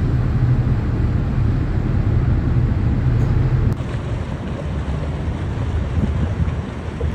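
Low, steady rumble of a passing cargo ship with wind noise on the microphone. About halfway through the sound cuts abruptly to a weaker rumble under wind.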